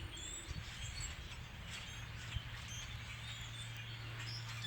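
Faint, scattered chirps from a large flock of birds, over a low outdoor rumble and a steady low hum that grows a little stronger after the middle.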